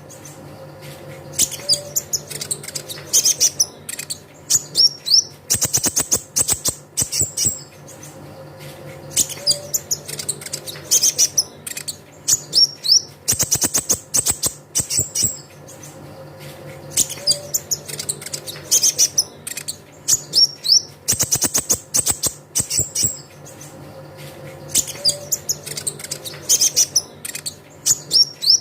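Olive-backed sunbird (kolibri ninja) song: rapid, high-pitched chirps and trills in dense clusters. The same phrase repeats about every eight seconds, a looped lure recording meant to prompt a caged bird to sing.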